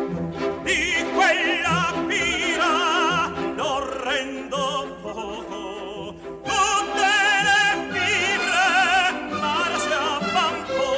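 Operatic tenor singing with strong vibrato over an orchestra. There is a short break in the voice about six seconds in, then the singing resumes.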